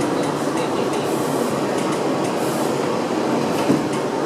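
Interior noise of an R62A subway car: a steady train rumble, with one sharp click about three and a half seconds in.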